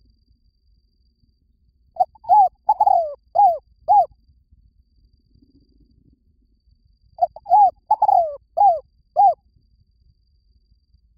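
Spotted dove cooing: two phrases of about five low, arching coo notes each, a few seconds apart. It is the decoy call used to lure wild doves.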